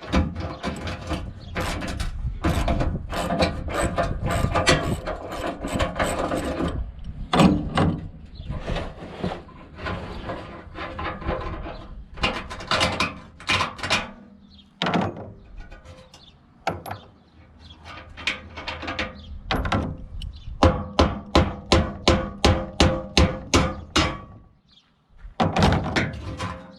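Hand ratchet wrench clicking in quick back-and-forth strokes as bolts are undone, in runs broken by short pauses.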